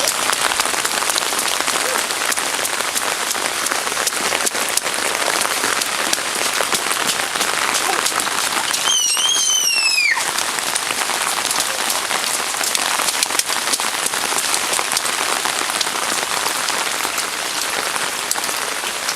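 Heavy rain pouring down, a steady dense hiss of rain hitting the ground and nearby surfaces. About nine seconds in, a brief high-pitched squeal rises slightly and then falls away.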